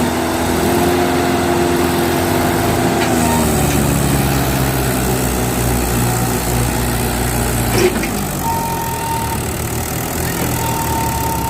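Tractor diesel engine revving hard, dropping back about three seconds in, then running steadily. A single sharp knock about eight seconds in.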